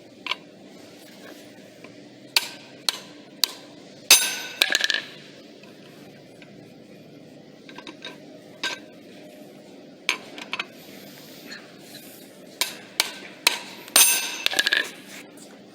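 Steel bearing parts being handled during disassembly or assembly: a series of irregular sharp metallic clicks and clinks. Two louder clusters of ringing metal strikes come about four seconds in and near the end.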